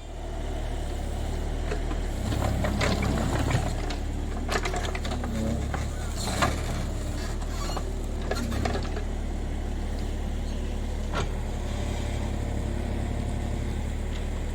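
JCB 30 Plus mini excavator's diesel engine running steadily, with scattered knocks and clanks from the digging work.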